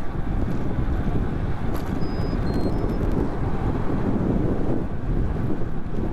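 Wind buffeting the microphone while riding a bicycle: a steady, dense rumble, with a few faint short high chirps about two seconds in.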